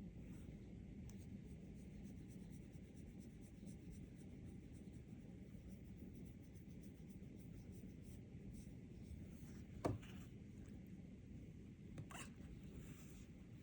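Near silence: a faint steady low room hum, with one short click about ten seconds in and a fainter one about two seconds later.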